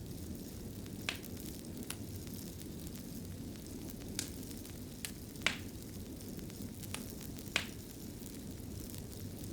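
Fire crackling in a fireplace: a steady low rumble of flames with sharp pops scattered through, about seven of them, the loudest about halfway.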